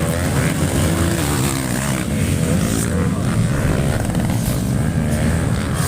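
Off-road motorcycle engines running and revving on a dirt race track, several bikes at once, their pitch rising and falling as they accelerate and back off.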